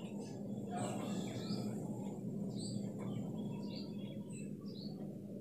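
Faint, scattered bird chirps in the background over a low, steady hum.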